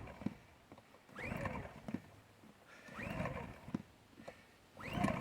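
Champion 2000-watt dual-fuel inverter generator's recoil starter pulled three times, about two seconds apart. Each pull is a rising whir as the rope spins the engine over, with small clicks between pulls. The engine cranks on propane but does not catch.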